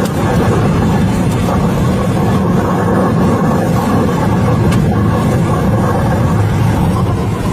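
Tornado wind pounding a car, heard from inside the cabin as a loud, steady low rumble, with a few faint ticks.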